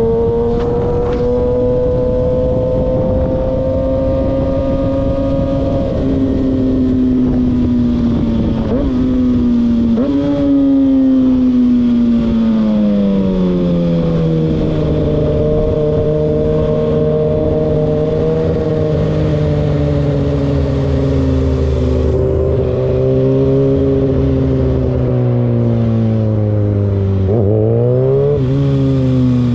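Car engine running with a steady drone that slowly drops in pitch, with quick revs about nine and ten seconds in and again near the end.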